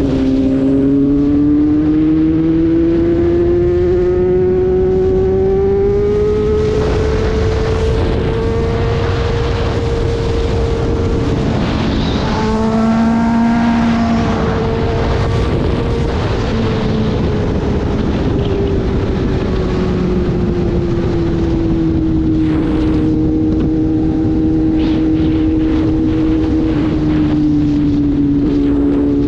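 Motorcycle engine under way over steady wind and road noise. The engine note climbs for about ten seconds, breaks briefly around twelve seconds in as if shifting gear, then holds and falls away gradually.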